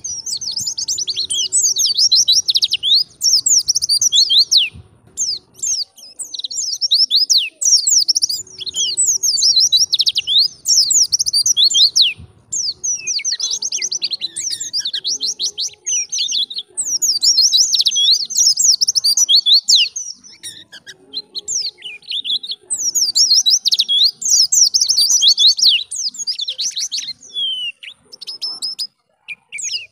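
White-eye (pleci) singing: long runs of rapid, high twittering song in several phrases, broken by short pauses.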